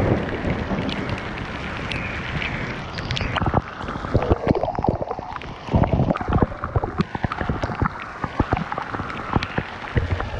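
Strong wind gusting over the microphone, and from about three seconds in, hail and rain striking around it in many sharp, irregular taps.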